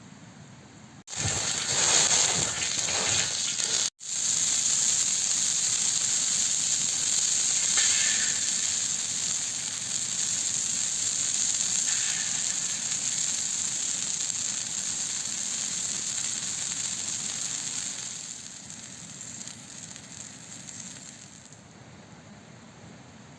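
A steady, loud sizzling hiss that starts abruptly about a second in, cuts out for an instant near four seconds, then carries on and fades away near the end.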